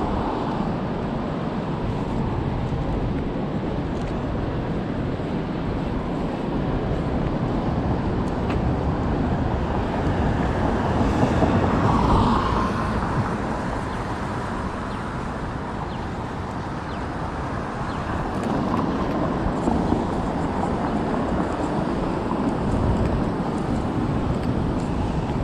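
Street traffic ambience: a steady rumble of cars, with one vehicle passing close and louder about halfway through.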